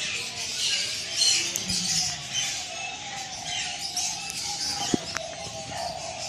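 Many small birds chirping and squawking together in a dense, continuous chatter.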